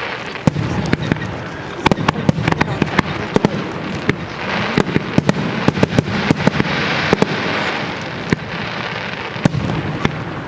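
Fireworks display: a rapid, dense string of sharp bangs, several a second, over a continuous hiss that swells twice.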